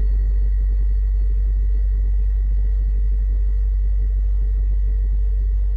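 Air-cooled refrigerator's compressor running: a loud, steady low hum with a fast, irregular rattle over it. It is back in normal operation after the blown thermal fuse and faulty bimetal defrost thermostat were replaced.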